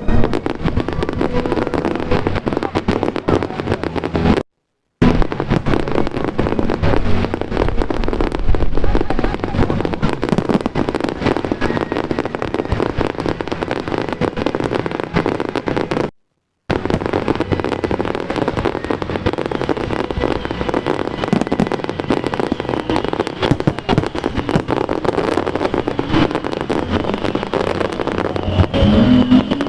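Fireworks display: a dense, continuous run of rapid crackling pops and bangs. The sound cuts out completely twice, for about half a second each time.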